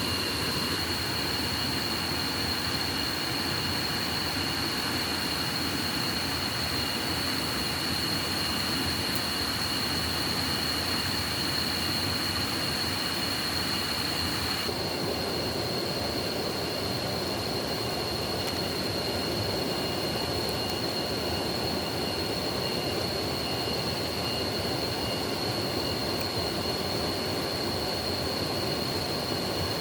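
A swollen forest stream rushing steadily after heavy rain, with a steady high-pitched tone over it; the hiss thins a little about halfway through.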